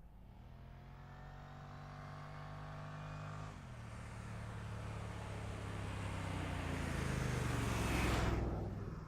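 Car engine accelerating hard, its pitch climbing, then dropping about three and a half seconds in as it shifts up, and climbing again. It grows steadily louder as the car comes past, loudest near the end.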